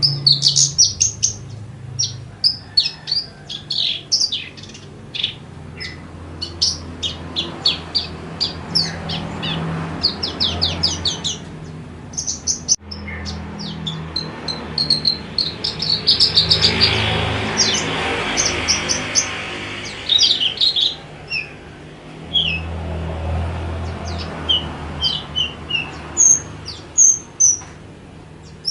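Horsfield's bush lark (branjangan) singing: fast runs of short, high chirps and trills with only brief pauses between phrases. A low steady hum runs underneath.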